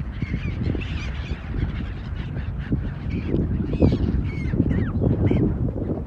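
A flock of birds calling over and over, short falling calls overlapping one another, over a steady low rumble.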